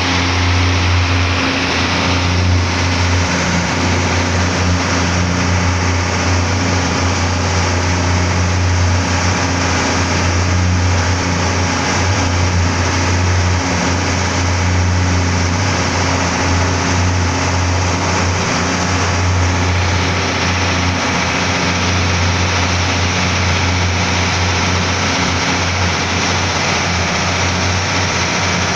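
Boat engine running steadily and loudly, with a strong low hum.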